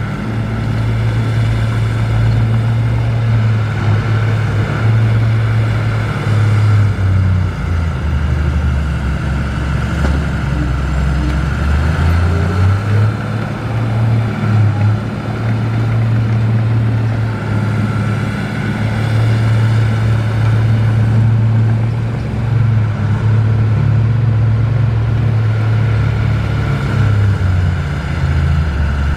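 Komatsu D53P bulldozer's diesel engine running continuously, its pitch sagging for a few seconds at a time and then climbing back, with a thin steady whine above it.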